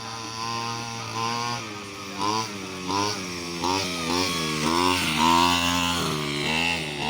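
Small two-stroke JD 37 engine fitted with a chainsaw carburettor, idling and then revved up and down about seven times from about a second in.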